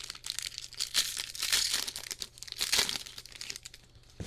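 Plastic wrapping on a box of trading cards crinkling and tearing as it is pulled off. The crackle is loudest in the first three seconds and dies down near the end.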